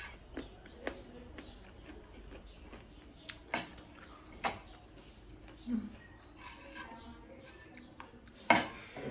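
Close-miked chewing with wet mouth clicks and smacks, in short separate bursts. A sharper, louder click comes near the end.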